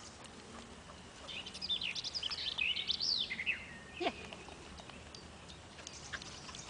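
Songbird singing in quick, high chirping phrases for about two seconds, followed about four seconds in by a single short call that slides downward.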